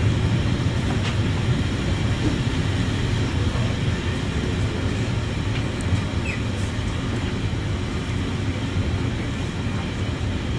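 Passenger train coach running along the track, heard from inside the carriage: a steady low rumble with running noise and a few faint clicks.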